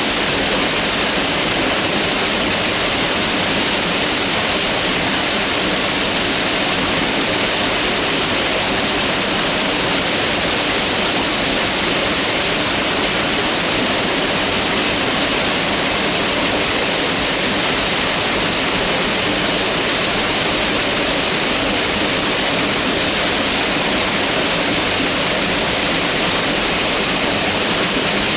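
Mountain river rushing over rocks, a steady, dense rush of water.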